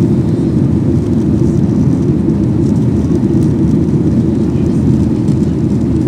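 Steady low rumble of an airliner in flight, heard inside the cabin: engine noise and rushing air, even throughout.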